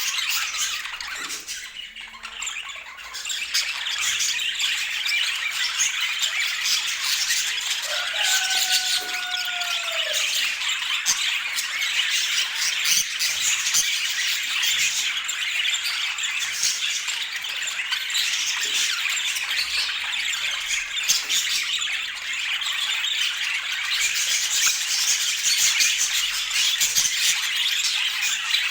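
A flock of budgerigars chattering and warbling without pause, a dense run of quick, high, scratchy notes.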